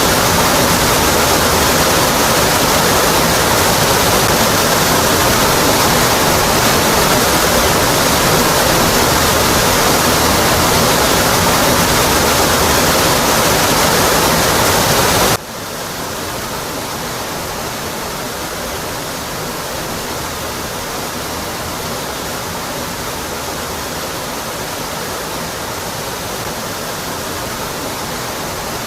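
Waterfall rushing in a steady roar of falling water. About halfway through the sound cuts abruptly to a quieter, thinner rush with less low rumble.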